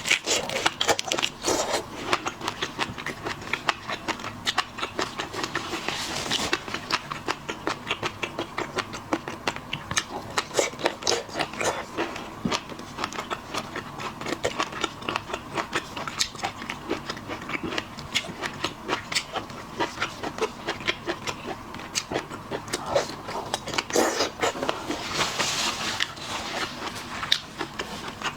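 Close-miked eating of seafood: steady chewing and biting with many quick clicks, the mouth sounds of a mukbang.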